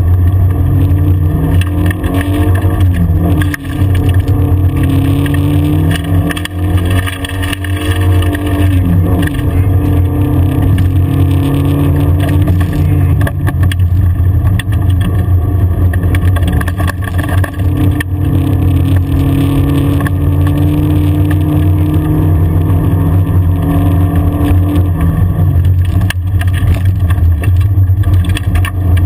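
Rally car's engine heard from inside the cabin while driving hard on a gravel forest track, its pitch climbing and dropping through gear changes a few times, then holding steady for a long stretch before dropping again near the end. A loud steady drone of tyres and road runs underneath.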